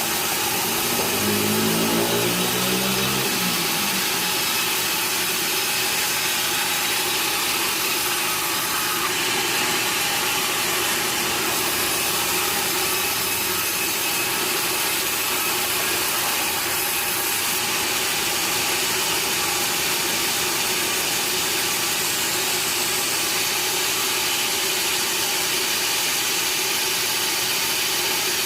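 Sawmill machinery running steadily with a constant, even noise. A short pitched, engine-like tone rises and falls about one to four seconds in.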